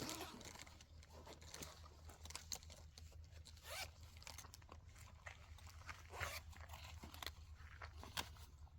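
Faint, scattered rustling and scratching of small handling sounds over a low steady hum.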